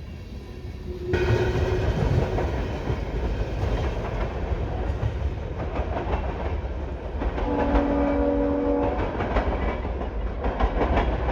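Freight train passing close by, its wheels rumbling and clattering over the rails. The locomotive's air horn sounds one chord-like blast of about a second and a half a little past the middle.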